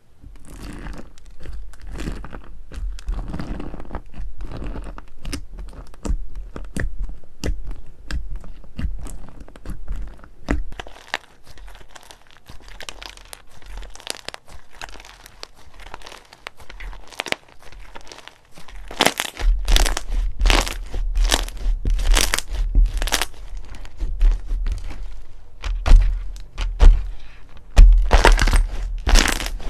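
Slime being squeezed and poked by hand, giving a dense run of crackling clicks and pops. Louder, sharper pops with low thuds come in about two-thirds of the way through.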